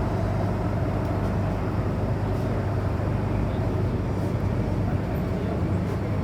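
MTR M-Train electric multiple unit running, heard from inside the passenger car: a steady rumble of wheels on track with a constant low hum.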